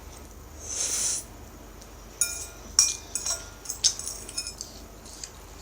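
Utensils clinking against a bowl while eating: a string of sharp, ringing clinks, after a short hissing rush about a second in.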